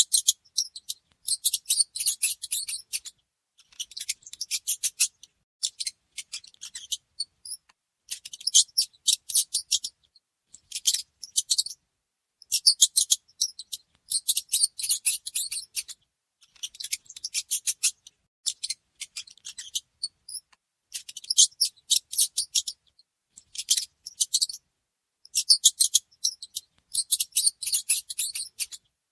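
Mouse scratching and scrabbling: bursts of fast, high-pitched scratchy clicks, each a second or two long, with short gaps between.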